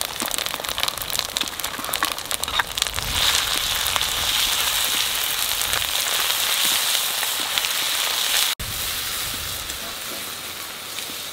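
Ginger, cumin-coriander and chilli pastes sizzling in hot oil with fried onions in a kadai as they are stirred in with a spatula. The sound crackles for the first few seconds, then settles into a steady sizzle.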